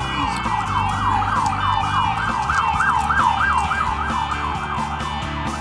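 Emergency vehicle siren in yelp mode: a fast up-and-down wail about three cycles a second, loudest midway and fading near the end.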